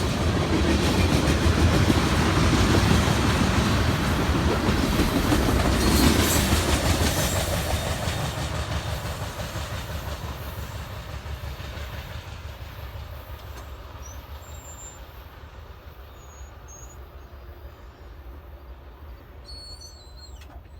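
Freight train cars rolling past with wheels clattering over the rail joints, loud at first, then fading steadily over about ten seconds as the train moves away.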